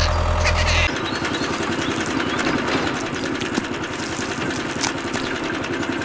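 Small engine running steadily with a fast, even pulse. A heavier low hum cuts off abruptly about a second in.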